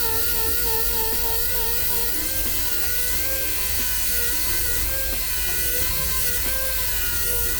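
A small rotary power tool running steadily, its pitch wavering slightly as the load changes.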